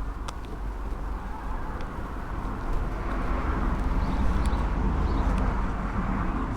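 Kawasaki ZX-7R inline-four sportbike engine running on the move, with a heavy low rumble of wind on the microphones, growing louder from about three seconds in.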